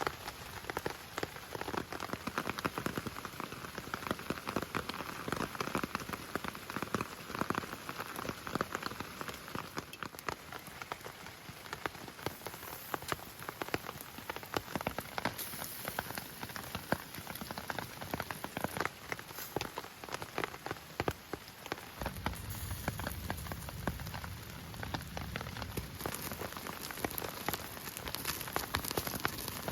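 Heavy rain falling, with dense individual drops striking close by. About two-thirds of the way through, a low steady noise joins under the rain.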